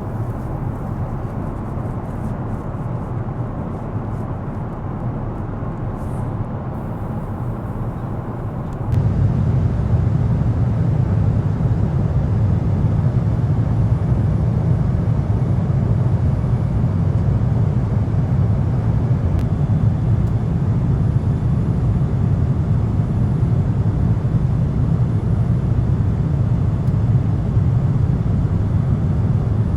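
Steady deep rumble of a Boeing 777-200 airliner heard from inside the cabin. It jumps suddenly louder about nine seconds in, then holds steady.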